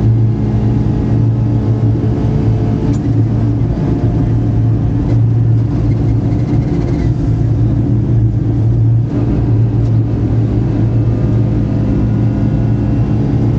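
Rally car's engine heard from inside the cockpit, running hard under load at speed, its revs dropping and climbing again a few times with gear changes.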